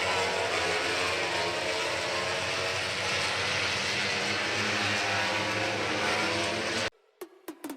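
Steady engine noise with many layered engine tones over a broad rushing sound, cutting off abruptly about seven seconds in. A few stuttering clicks follow as electronic music begins.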